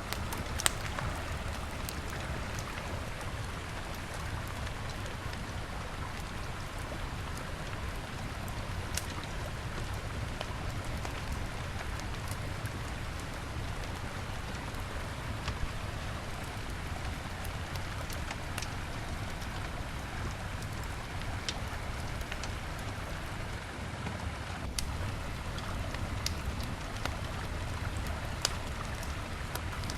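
Wood campfire crackling, with sharp pops scattered through it, over the steady rushing of a river.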